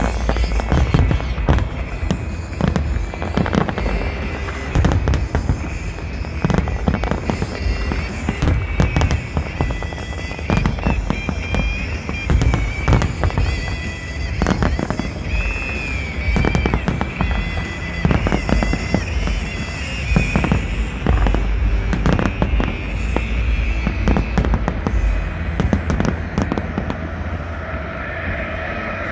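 Large fireworks display: aerial shells bursting in rapid, overlapping bangs with a deep rumble, and music playing beneath.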